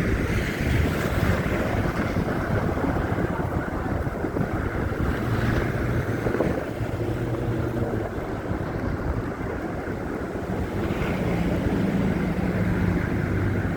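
Wind buffeting a handheld phone's microphone in a snowstorm, a steady rumbling rush with a low hum underneath.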